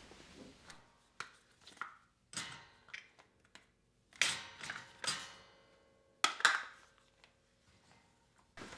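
Household objects being handled and set down: a series of short knocks and rustles with quiet gaps between them, the loudest about four, five and six and a half seconds in.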